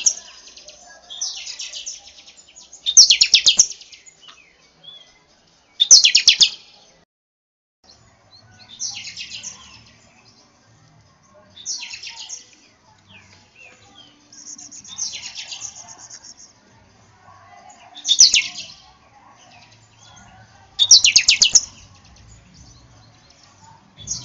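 Buffy-fronted seedeater (pixoxo) singing: short, loud phrases of rapid high notes, repeated every two to three seconds with pauses between them.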